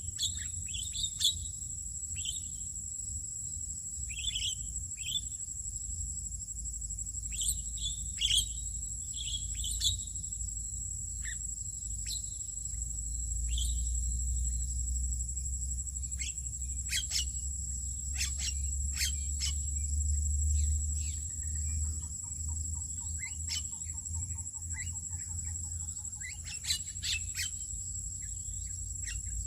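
Scattered short bird chirps and calls over a steady high-pitched insect drone. Under them is a low rumble that swells in the middle, and a quick pulsing trill comes a little past halfway.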